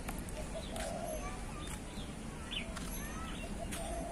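Birds chirping and calling, with short rising and falling chirps and two lower warbling calls, one about a second in and one near the end. A few sharp clicks sound over a steady low background noise.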